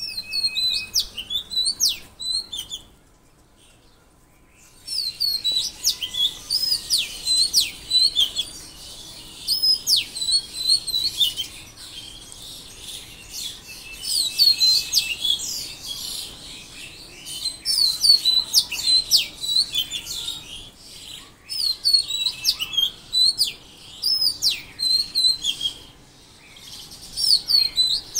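Songbirds chirping and singing in quick repeated phrases of short, high, sweeping notes, with a brief lull about three seconds in.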